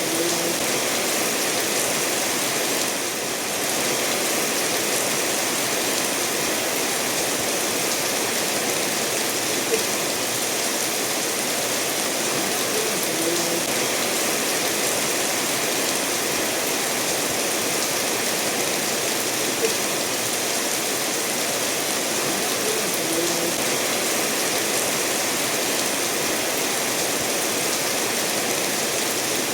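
Steady rain falling together with a stream running over stones, an even, unbroken hiss of water. Two small sharp ticks stand out, about ten seconds apart.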